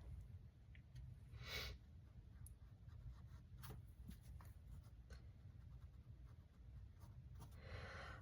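Faint acrylic paintbrush strokes on canvas: soft scratchy dabs and ticks, with one longer swish about one and a half seconds in, over a low steady room hum.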